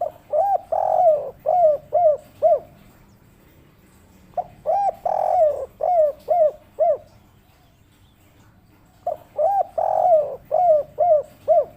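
Spotted dove (derkuku) cooing in three phrases, each a quick series of arched coos with one longer, drawn-out coo early on and a run of short clipped notes at the end: the 'kuk 3' song type prized by bird keepers.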